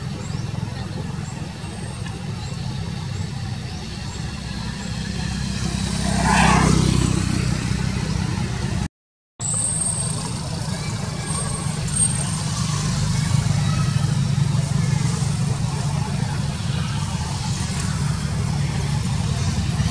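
Steady low traffic rumble, with one vehicle passing close by about six seconds in. The sound cuts out completely for a moment about nine seconds in.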